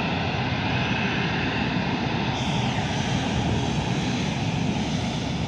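Jet airliner engines running, a steady rumble with a hissing whine that holds an even level.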